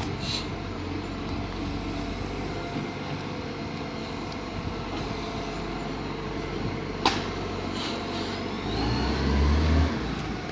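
Garbage truck engine running steadily, with a single sharp click about seven seconds in and the engine growing louder near the end.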